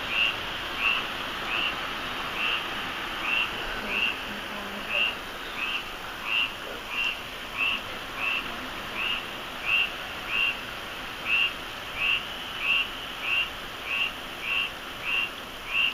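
An animal calling with short, high chirps repeated evenly about every 0.7 seconds, over a steady background hiss.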